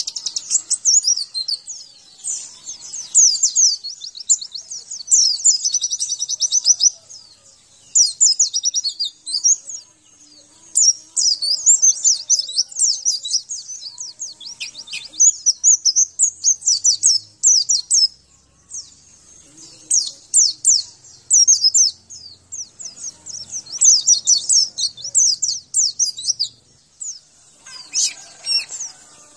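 White-eye (pleci) song: a fast, high-pitched twittering warble in rapid run-on phrases broken by short pauses.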